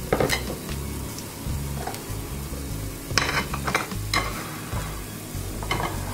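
Dals, dried red chillies, coriander seeds and cumin frying in oil in a nonstick pan. A steady sizzle is broken by scattered crackles and pops, with a cluster of them about three seconds in.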